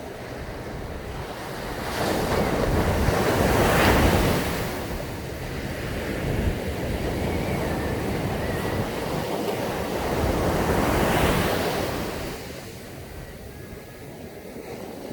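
Ocean waves breaking on a sandy beach: two waves swell and crash, the first around two to four seconds in and the second around eleven seconds in, each followed by a long wash of surf. Wind rumbles on the microphone.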